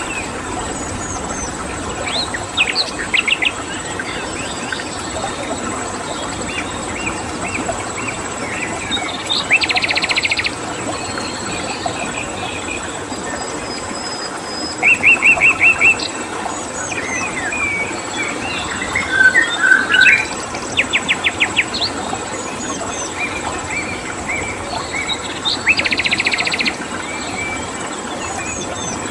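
Wild birds chirping and calling over a steady rush of running stream water and a constant high cricket drone. A bird gives a loud rapid trill four times, at about ten, fifteen, twenty-one and twenty-six seconds in.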